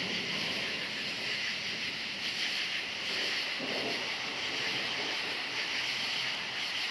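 Dense chorus of crickets chirping steadily, with a faint pulsing high trill above it. A faint low rumble comes about three and a half seconds in.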